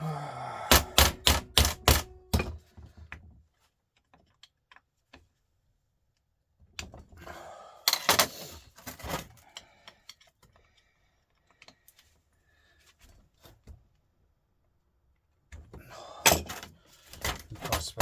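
Sharp metallic knocks and clicks of hand tools working on the parts of a truck starter motor being dismantled. They come in three bursts of rapid strikes, several a second, at the start, in the middle and near the end, with quiet gaps between.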